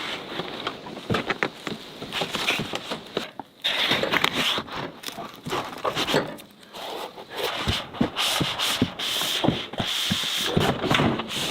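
Hands-on building work: irregular rubbing and scraping, broken by scattered sharp clicks and knocks.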